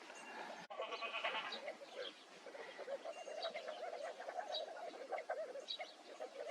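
A group of desert birds calling together: a dense chatter of many short overlapping calls, with higher sharp pips repeating about once a second. There is a brief break in the sound about two-thirds of a second in.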